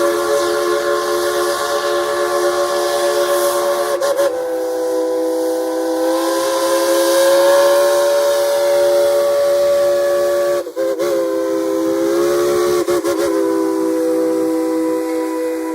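Steam locomotive #190's chime whistle blowing a long, loud chord of several tones, with steam hissing. The whistle breaks off briefly and wavers about four seconds in and again about eleven seconds in.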